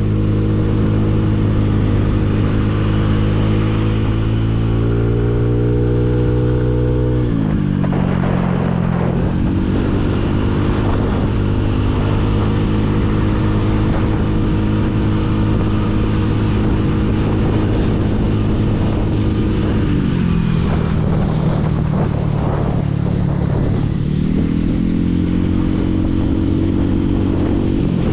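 Motorcycle engine running under way, a steady drone whose pitch climbs a little, falls sharply about seven seconds in, holds level, falls again about twenty seconds in and climbs back near the end, over road and wind noise.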